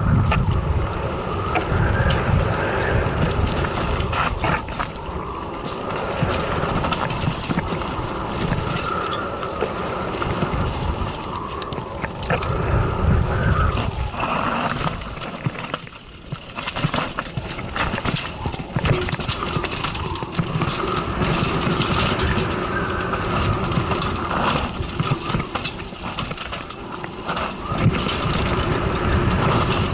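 Mountain bike ridden fast down a rough enduro trail: tyres crunching over rocks and dirt with constant rattles and knocks from the bike, and wind buffeting the microphone.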